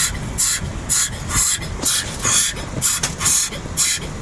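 Automatic car wash water jets spraying against the car in even, rhythmic hissing bursts, a little over two a second, heard from inside the car over a steady low rumble.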